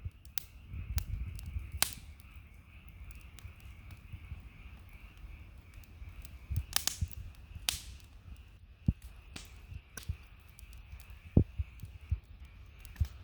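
Wood campfire crackling: irregular sharp pops and snaps, a few much louder ones in the middle and later part, over a low rumble and a faint steady high hiss.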